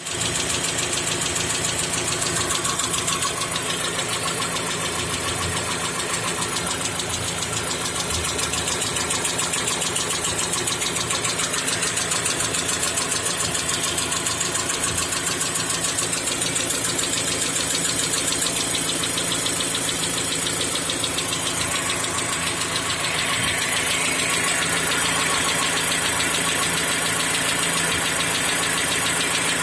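Mazda CX-5 SkyActiv engine running cold with a rapid, even ticking knock. It is the cold-engine knock that fades once warm, which the owner suspects comes from the hydraulic lash adjusters or the connecting rods.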